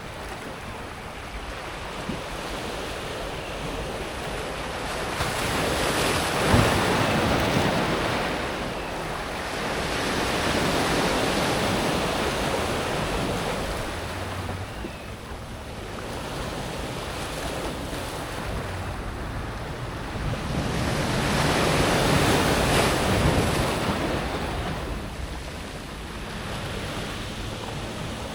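Sea waves breaking and washing over a pebble beach, the surf swelling and easing in about three surges, with a sharp crash of a wave about six seconds in.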